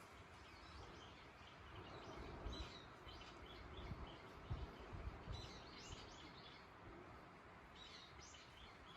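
Faint rural autumn wind with small birds chirping in short clusters a few times, and low gusts of wind buffeting the microphone.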